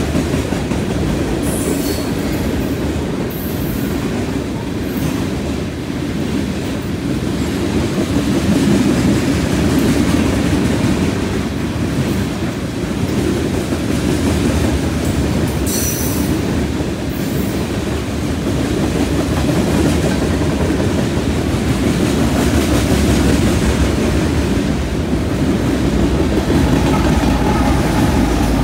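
Loaded freight cars (covered hoppers and tank cars) rolling past, a steady rumble of steel wheels on rail with clickety-clack over the joints. Brief high wheel squeals come about two seconds in and again about sixteen seconds in. Near the end the engine of the mid-train distributed-power diesel locomotive joins the rumble as it arrives.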